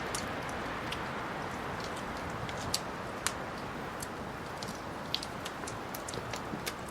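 Wood fire burning in a fireplace: a steady hiss with many sharp crackles and pops, which come more often in the second half, the loudest pair about three seconds in.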